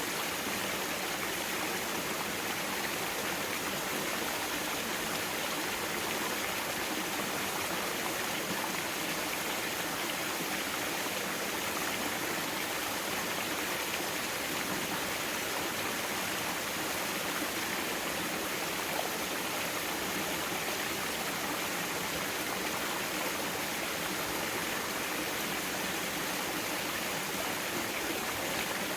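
Mountain stream water flowing steadily over rocks, an even rushing sound.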